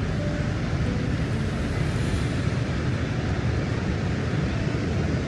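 Steady, even low rushing roar of Niagara Falls' falling water, with no swells or breaks.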